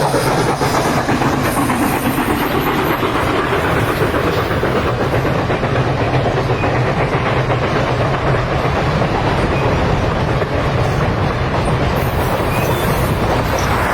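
Train running along the rails: a steady rumble and wheel clatter with a low hum underneath, unbroken throughout.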